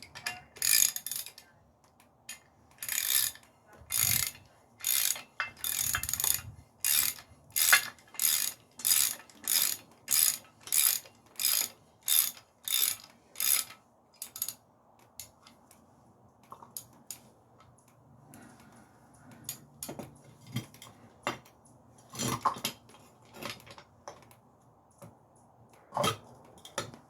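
Hand ratchet wrench clicking in a steady run of strokes, about two a second, as a bolt on an engine mount is run down. After about fourteen seconds the strokes stop and only a few scattered clicks and knocks follow.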